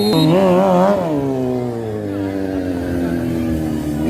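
Drift car engine revving, its pitch wavering quickly up and down for about a second, then falling steadily as the revs drop.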